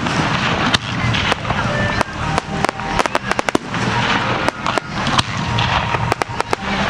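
Aerial fireworks bursting in quick succession: many sharp bangs, several a second, over continuous crackling.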